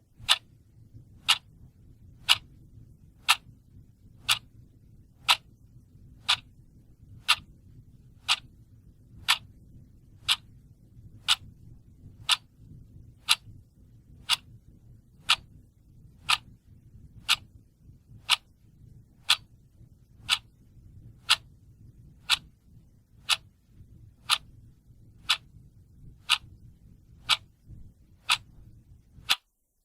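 Clock ticking steadily, one sharp tick a second, over a faint low hum that cuts off shortly before the end.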